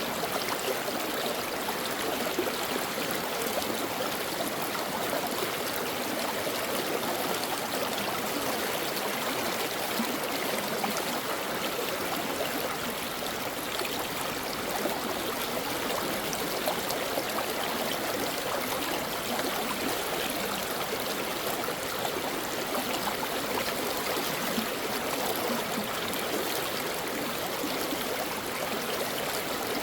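Mountain stream flowing over rocks: steady rushing and babbling water.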